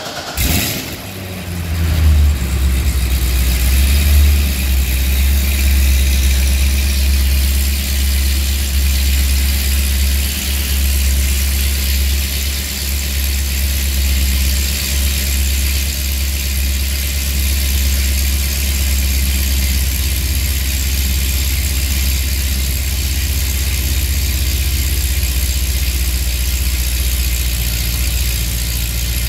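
2009 Corvette C6 Z06's 7.0-litre LS7 V8, fitted with Kooks 2-inch catless long-tube headers and an X-pipe, catching about half a second in, flaring up for a few seconds, then settling into a steady loud idle through the quad exhaust.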